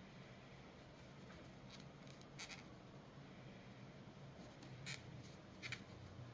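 Leatherman Signal multitool being worked by hand, three faint sharp clicks of its parts snapping into place over a low hum; the tool is being oiled with sewing-machine oil and flexed to work old grime out of its joints.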